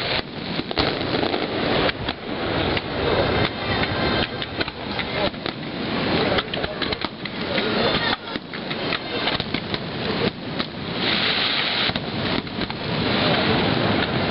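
Dense barrage of aerial firework shells bursting, a rapid run of overlapping bangs and crackle with no gaps.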